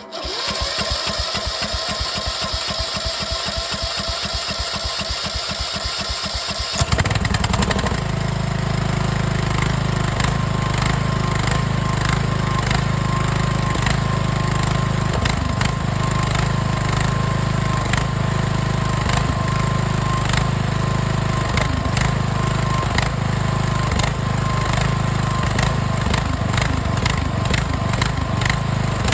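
Replacement small engine in a Craftsman LT1000 riding mower, turned over by its electric starter for about seven seconds, then catching and running steadily at its first startup after the engine swap.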